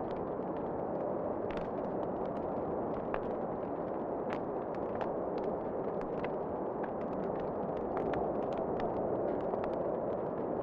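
Wood fire crackling in a fireplace: irregular sharp pops and snaps over a steady, even rushing noise.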